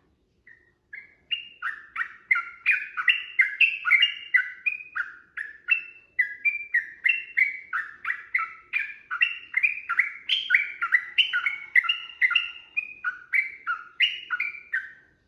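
Yellow-vented bulbul (trucukan) singing a long, unbroken run of quick, bubbly phrases of short notes, about three or four a second. It starts faintly, swells within the first second or so, and stops just before the end.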